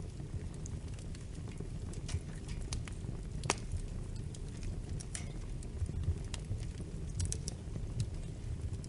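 Wood fire crackling: irregular sharp pops and snaps over a low, steady rumble of burning, with one louder pop about three and a half seconds in.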